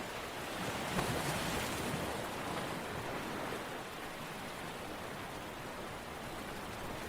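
Steady rushing water noise that swells about a second in, then eases to an even wash.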